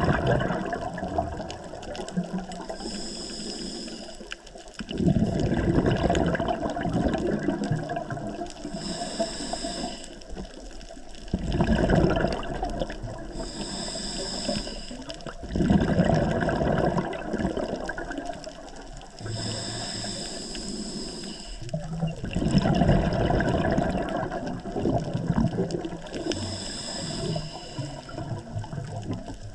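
Scuba diver breathing through a regulator underwater, about five breaths. Each breath is a short high hiss as air is drawn in, then a louder rush of exhaled bubbles lasting a few seconds.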